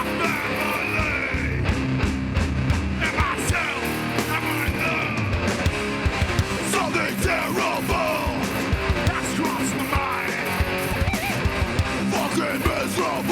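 Live hardcore band playing a song: guitars, rapid drum hits and shouted vocals.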